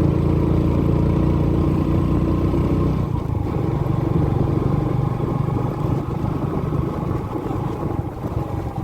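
Motorbike engine running during a ride, with a steady note for the first three seconds, then a rougher, noisier rumble.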